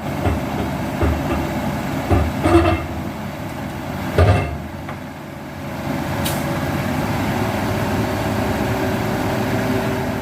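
Hino dump truck's diesel engine running steadily, with several loud knocks in the first few seconds.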